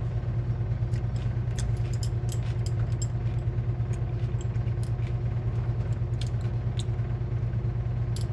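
A steady low hum, with faint scattered clicks of chewing and mouth sounds over it.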